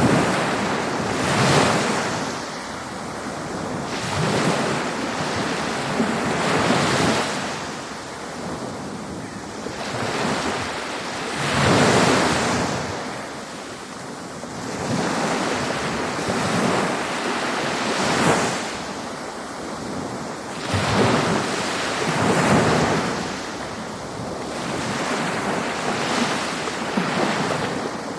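Ocean waves breaking and washing on a shore, a continuous surf hiss that swells with each wave every few seconds, the biggest surges about a second in, near the middle and about two thirds through.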